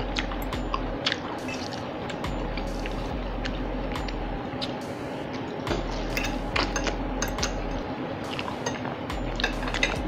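Close-miked eating sounds: wet chewing and lip smacking over dirty rice and battered fried 'chicken' strips, with scattered small clicks and fork taps on the plates.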